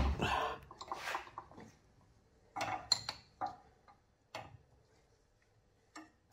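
Scattered clicks and clatter of tools and parts being handled: a sharp knock at the start with about a second of rattling, then a few short clicks with quiet gaps between.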